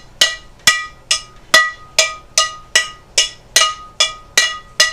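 Metal cookware beaten like a drum in a steady drum-line beat: about a dozen sharp, ringing strikes, a little over two a second.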